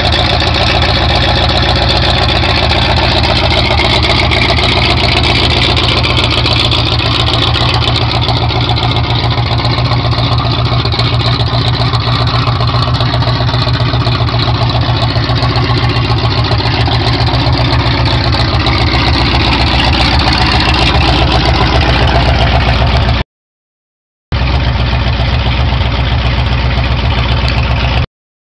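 Built AMC 360 V8 in a 1979 AMC Spirit drag car running at a steady idle through headers. The sound cuts out to silence twice near the end, for about a second each time.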